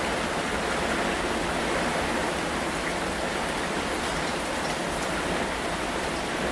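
Steady rain falling, a dense even hiss with a few sharper drop ticks here and there.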